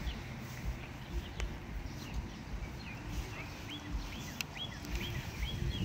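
Songbirds chirping: short, quick calls repeated many times, growing busier in the second half, over a low rumble.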